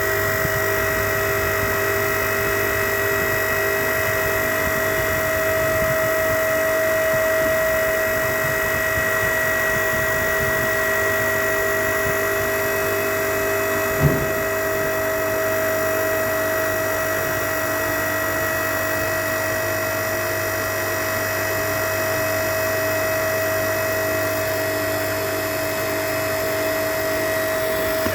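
A steady machine whine made of several constant tones, unchanging in pitch, with a single sharp click about halfway through.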